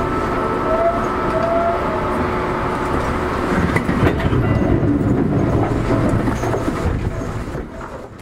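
Seibu 2000 series electric commuter train heard from on board: a continuous rumble and wheel clatter, with a few steady high tones in the first two seconds. The rumble grows heavier with a few clicks about three and a half seconds in, then fades out near the end.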